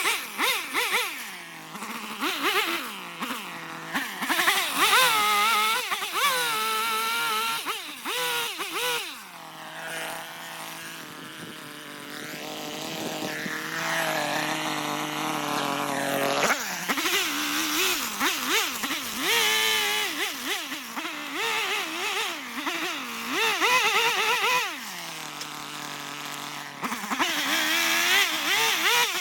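Chainsaw cutting into an eastern red cedar block, its engine revving up and falling back again and again as the carver works. It runs at a steadier pitch for a few seconds near the middle, then changes abruptly.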